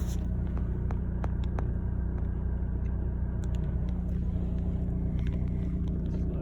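Steady low rumble of a car's engine and tyres heard from inside the cabin while driving, with a few faint clicks about a second in.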